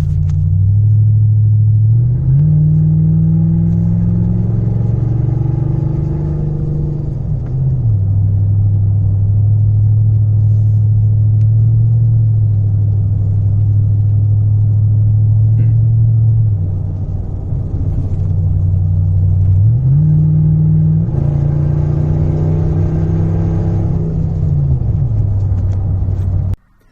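2004 Toyota Tundra's 4.7-litre V8 running with its muffler removed, under way on the road. The low exhaust note rises in pitch as the truck accelerates, about two seconds in and again about twenty seconds in, and falls back a few seconds after each rise. In between it holds a steady deep drone, the drone the owner notes when on the throttle with the muffler gone.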